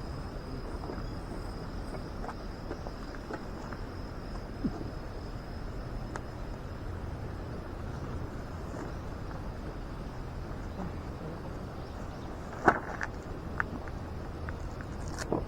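Outdoor ambience: an insect trilling steadily on one high note over a low rumble, with scattered small clicks and one sharp click about three seconds before the end.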